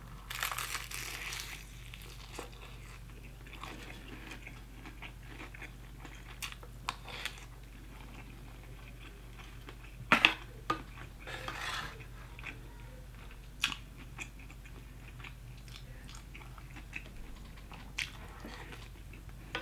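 Close-up biting and chewing of crunchy Popeyes fried chicken: soft crunches and mouth sounds, with a louder crunch about ten seconds in.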